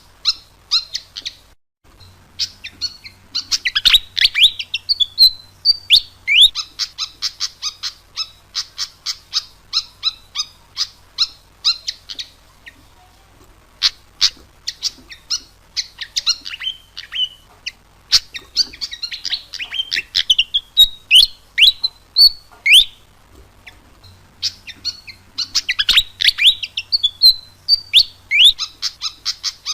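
Fantail (sikatan kipas) singing vigorously: rapid runs of sharp chips mixed with quick squeaky phrases that sweep down in pitch, in long bouts with brief pauses at about 2, 13 and 24 seconds in.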